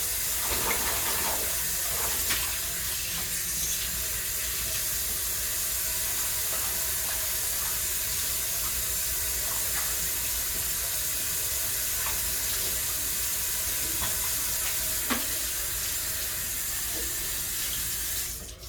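Water running steadily from a kitchen tap, with a few light knocks, until it is shut off suddenly near the end.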